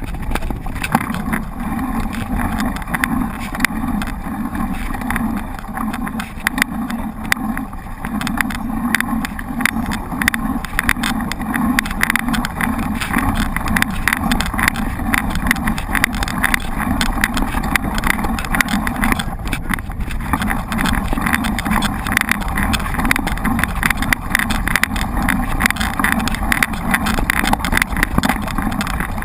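Mountain bike being ridden over rough ground: a steady rumble of tyres, with dense clattering and rattling from the bike over bumps.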